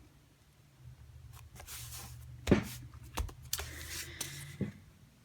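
Cardstock being handled and laid into place on a craft table: papery rustling and sliding, with a few sharp taps about two and a half and three seconds in.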